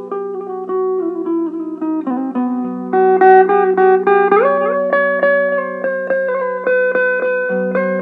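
Electric mandolin playing a slow melody with rapidly repeated picked notes over a low sustained note. The melody steps down in the first couple of seconds and slides up about halfway through.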